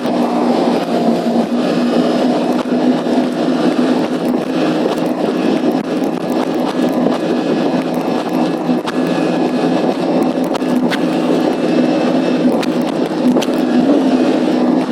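Jet ski engine running steadily at speed, a constant droning hum with rushing water noise and scattered sharp ticks, heard through a waterproof bag.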